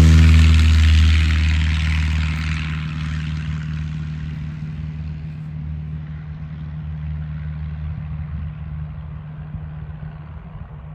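1994 Maule MX-7-180's piston engine and propeller running at steady power as the light plane flies away, loud at first and fading steadily into the distance.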